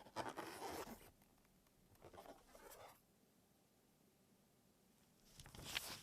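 Toy packaging being handled during unboxing: three short bursts of plastic and cardboard rustling and scraping, the last the loudest, near the end.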